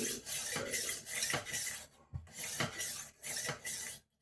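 A kitchen knife's edge being worked on the fine side of a rolling knife sharpener: a run of quick rasping strokes of the blade against the sharpening disc, with a short pause about two seconds in.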